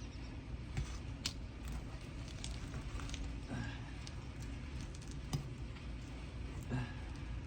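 Asphalt roof shingles being pried loose from their sticky tar sealant strip: scattered crackles, clicks and short squeaks as the adhesive lets go, over a steady low rumble.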